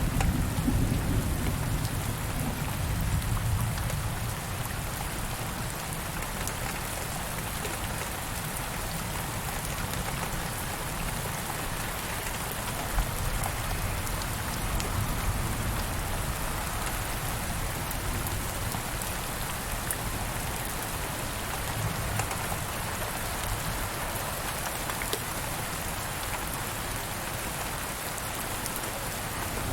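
Steady rain falling, with scattered drop ticks, and a low rumble of distant thunder that fades away over the first few seconds.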